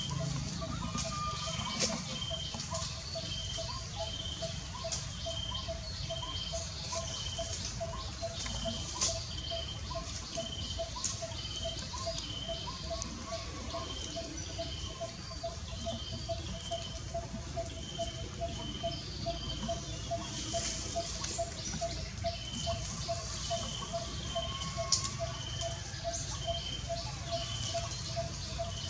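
Wild birds calling steadily in the background: a low note repeated evenly about three times a second, and a higher note about every two-thirds of a second, with scattered short chirps over a low rumble.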